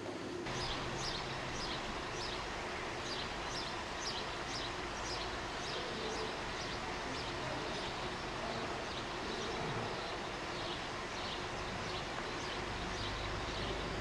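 A small bird calling with a short, high, falling chirp repeated about twice a second, fainter in the second half, over a steady outdoor background hiss and rumble.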